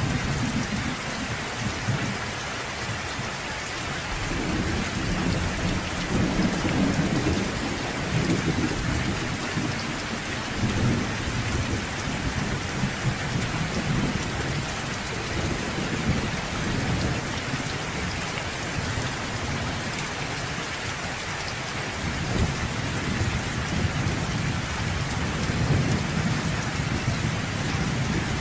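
Thunderstorm: steady rain pattering, with low thunder rumbling beneath it that swells a few seconds in and again near the end.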